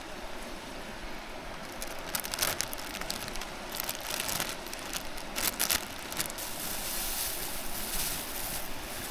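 Steady rush of a mountain stream, with a few clusters of short, sharp high clicks and rustles over it.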